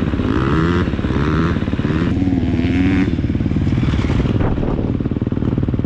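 Single-cylinder four-stroke motocross bike engine, a KTM 250 SX-F, running hard while ridden, its revs rising and falling with the throttle.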